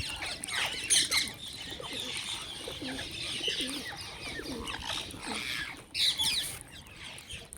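A group of small birds chirping busily: many short, high chirps overlapping throughout, with a few lower calls in the middle.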